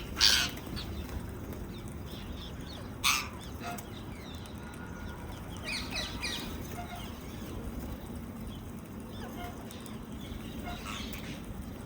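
Rose-ringed parakeets calling: two loud, harsh screeches, one right at the start and one about three seconds in, followed by softer chirps.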